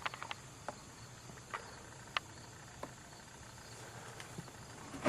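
A few light, scattered clicks and taps of tools and parts being handled during engine work, about a second apart, over a faint steady chirring of insects.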